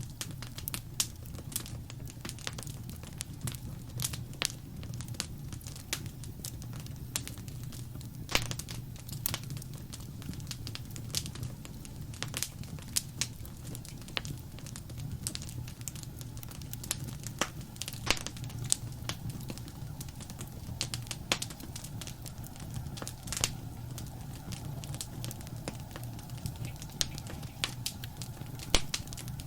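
Wood fire crackling: frequent sharp, irregular pops and snaps over a steady low rumble of the flames.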